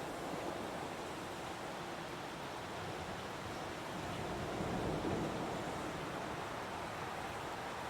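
Heavy rain falling steadily in a forest as an even rushing hiss, swelling a little about five seconds in.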